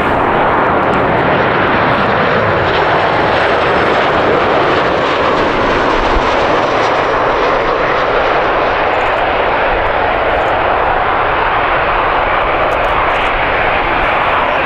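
Jet airliner's engines, loud and steady.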